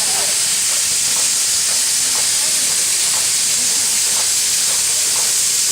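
Steam locomotive L-4600 letting off a steady, loud hiss of steam.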